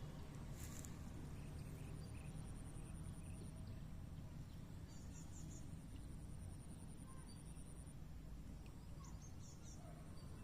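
Rural outdoor ambience: a steady low rumble under a high, thin insect trill that comes and goes, with a few short bird chirps about halfway through and again near the end.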